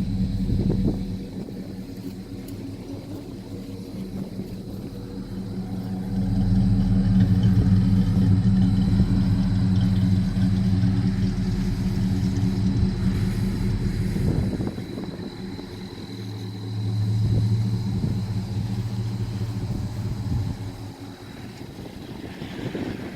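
1957 Chevrolet 3100 pickup truck's engine running and being revved by hand: it idles, is held at higher revs twice for several seconds, and settles back to idle each time.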